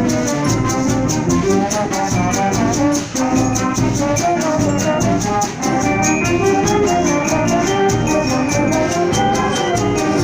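Symphonic wind band playing: brass and woodwinds carry sustained chords and a moving melody over a steady, fast percussion beat.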